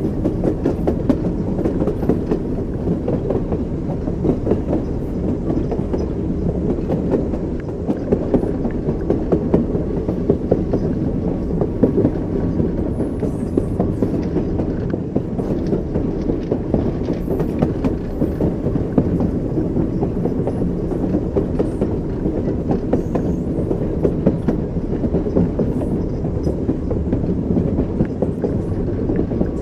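Railway carriage wheels rolling over rail joints: a steady low rumble with a continual clatter of small knocks.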